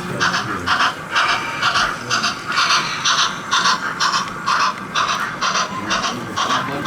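Sound-fitted model steam locomotive chuffing at a quick, even beat from its sound decoder's speaker, over a low murmur of exhibition crowd chatter.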